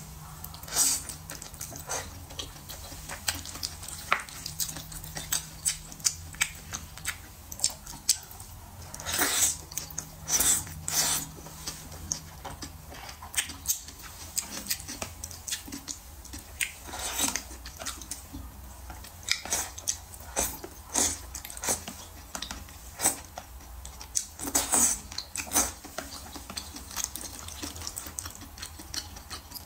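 Close-miked eating of soft wontons in chili oil: wet, smacking chewing with sharp mouth clicks at irregular intervals, louder in clusters about nine to eleven seconds in and again around twenty-five seconds.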